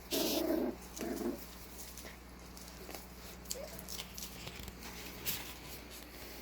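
Corgi puppy giving two short barks in quick succession at the start, followed by faint light clicks and scuffles.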